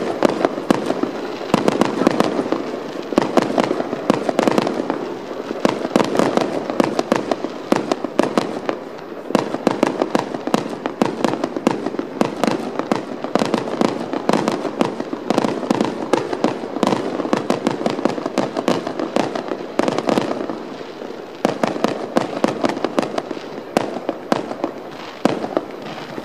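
Aerial fireworks going off: many sharp bangs and crackles in quick succession.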